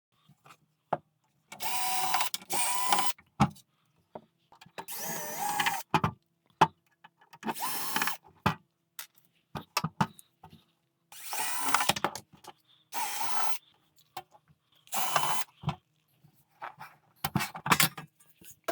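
Small electric power driver backing out the case screws of a rack effects unit in about eight short runs, each with a motor whine that shifts in pitch. Sharp clicks of screws and metal handling come between the runs.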